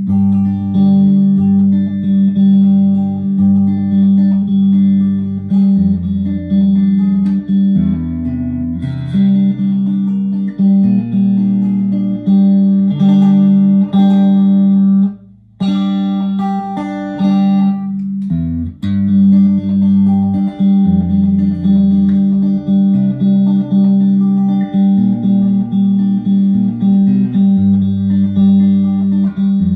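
A freshly set-up Fender USA Stratocaster electric guitar being played as a sound test: sustained notes and chords over low notes that change every second or so, with a brief pause about halfway.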